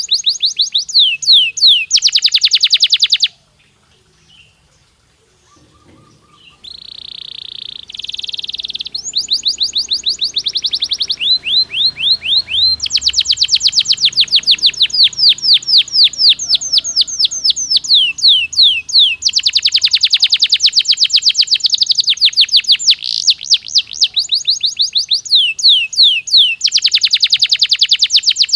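Domestic canary singing: fast trills of rapidly repeated falling notes strung into phrases, with one buzzing rolled phrase among them. The song breaks off for about three seconds a few seconds in, then runs on in dense trills.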